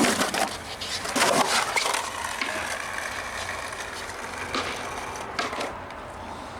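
Skateboard rolling, with a few sharp clacks of the board, the loudest about a second in.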